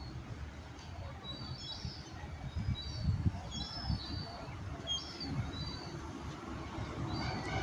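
Small birds chirping: short, high chirps repeated over and over, over a low outdoor rumble that gets slightly louder near the end.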